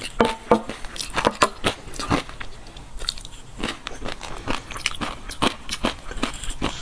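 Close-miked chewing of fish roe, the small eggs popping and crackling in quick, irregular clicks, several a second.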